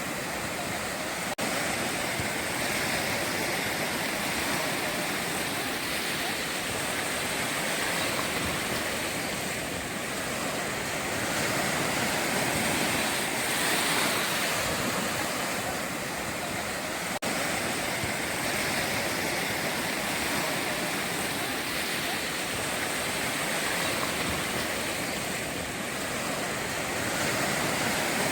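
Ocean surf breaking and washing on the shore: a steady rush of waves that slowly swells and eases, with two momentary cuts in the sound.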